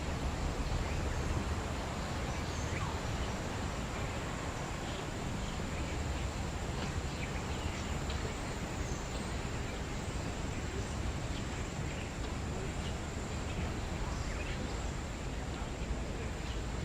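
Steady outdoor ambient noise with a low rumble, over which faint, short bird chirps come and go.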